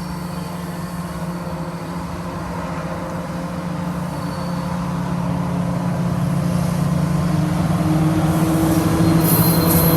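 Diesel-electric freight locomotives of the NSW 82 class hauling a grain train, their engines running under load with a steady hum that grows gradually louder as they come closer.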